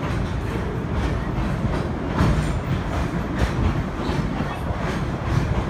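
Narrow-gauge train running through a rock tunnel, heard from an open passenger car: a steady rumble of wheels on rail, with irregular clicks and knocks over it.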